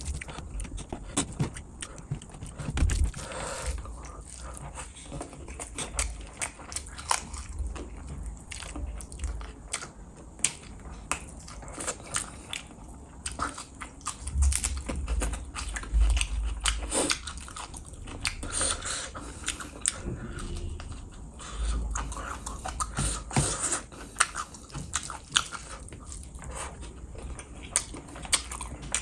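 Chewing and wet mouth sounds of a man eating curry-soaked rice and fish by hand: many small irregular smacks and clicks, with squishing as he squeezes handfuls of rice and gravy.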